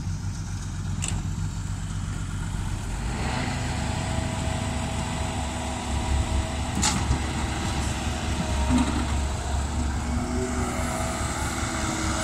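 Heavy diesel engine running steadily, growing louder about three seconds in, with two brief clicks.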